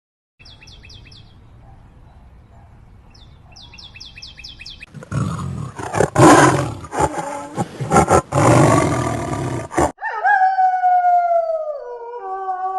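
A big cat roaring and growling in loud, rough bursts for about five seconds, after faint quick chirping early on. Near the end a long, clear pitched call slides down in pitch.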